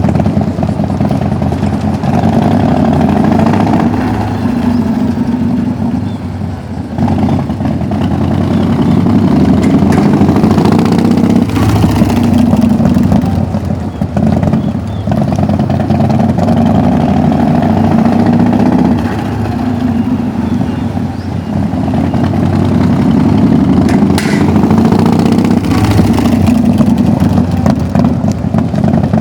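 1998 Harley-Davidson FLSTC Heritage Softail Classic's 1340 cc Evolution V-twin running and being revved over and over, the engine note rising and falling back every few seconds.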